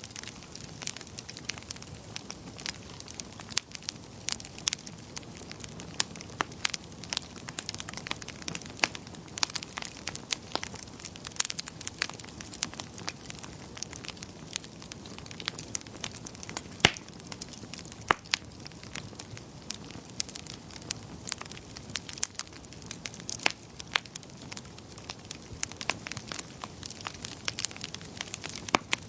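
Wood fire crackling in a fireplace: irregular sharp pops and snaps over a steady low hiss of the burning logs.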